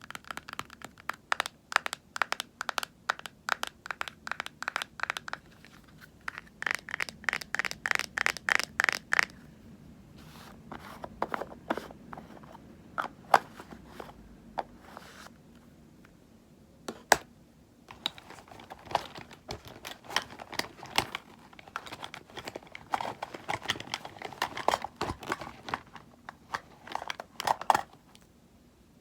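Cosmetic items being handled: quick runs of tapping, several taps a second, through the first ten seconds, then a few scattered sharp clicks, then softer scratching and rustling near the end.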